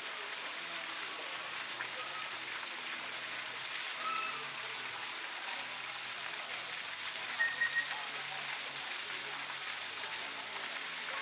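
Steady rushing noise like running water, with faint background voices. A few short high chirps come through, the loudest a quick cluster about seven seconds in.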